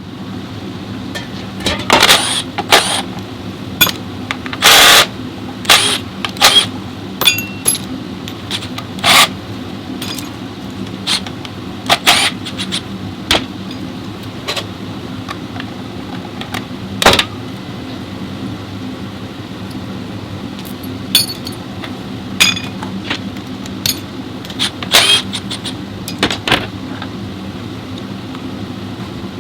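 Steady machine hum in a workshop with frequent sharp metallic clanks and knocks, as of metal parts and tools being handled; the clanks come thickest in the first half and again near the end.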